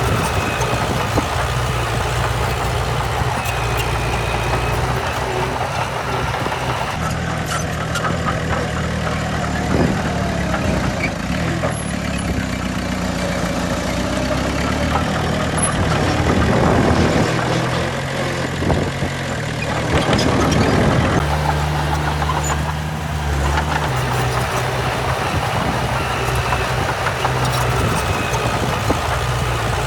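Heavy diesel earthmoving machinery running, the engine note shifting up and down as it works, with louder, rougher spells around the middle.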